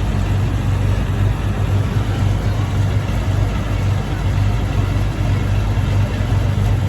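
Tractor engine running steadily with an even, low hum, holding the same pitch and level throughout.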